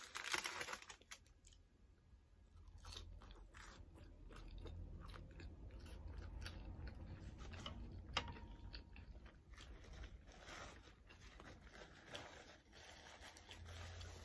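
A person chewing a mouthful of crunchy nacho chips topped with ground beef, lettuce and cheese, with many small crunches. A denser burst of crunching comes in the first second.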